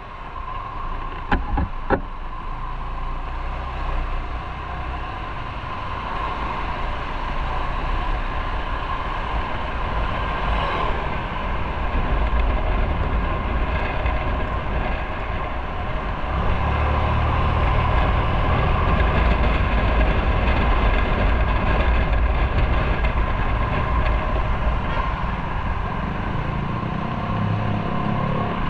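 A motorcycle running on the road, a steady drone of engine and rushing noise with a low rumble that grows louder about halfway through. There are two sharp clicks about a second and two seconds in.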